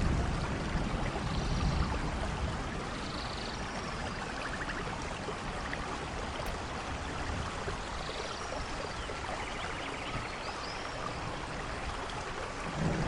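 Steady rain falling, an even hiss with a few faint short chirps above it.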